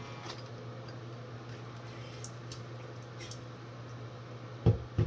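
Light plastic clicks and handling of a Navage nasal irrigator over a steady low hum, ending in two louder knocks as the device is put back together.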